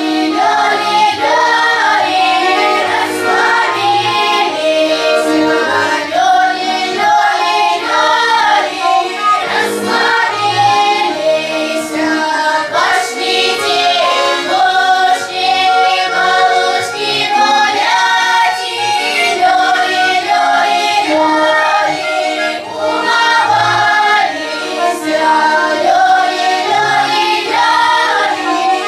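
A children's choir singing a song, with low accompanying notes beneath the voices throughout.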